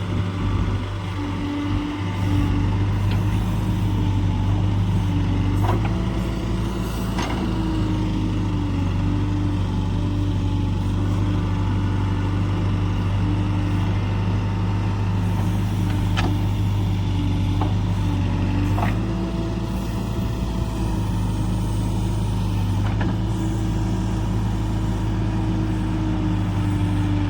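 A heavy farm diesel engine running steadily at a constant speed, with a few sharp clicks or knocks scattered over it.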